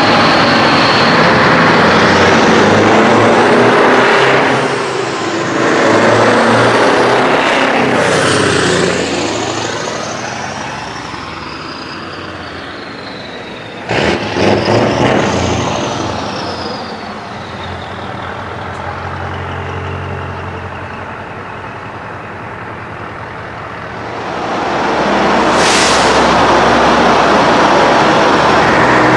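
Heavy trucks driving past one after another, engine and tyre noise swelling and fading as each passes, with a high whine that falls in pitch as they go by. About halfway through there is a sudden sharp burst of noise.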